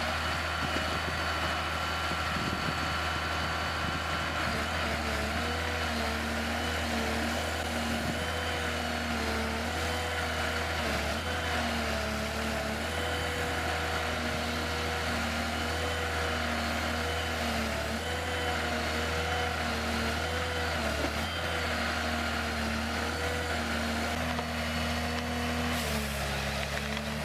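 Heavy machine engine running steadily, its pitch dipping and rising in small steps again and again, as with changing load.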